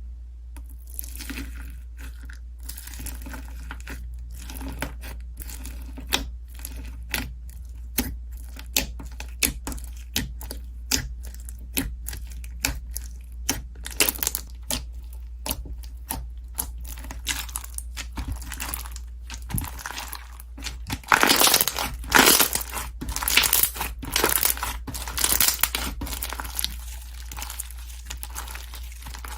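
Slime being squeezed and poked by hand, a dense run of sharp crackles and pops that grows thicker and louder for several seconds about two-thirds of the way through, over a low steady hum.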